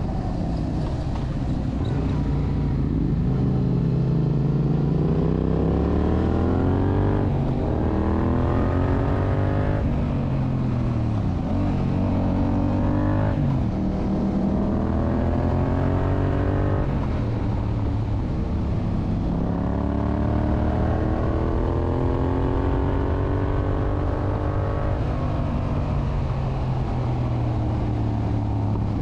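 A 2021 Yamaha MT-07's 689 cc parallel-twin engine through a full Akrapovic exhaust, accelerating hard. The engine note climbs in pitch and drops back again and again as the rider shifts up through the gears.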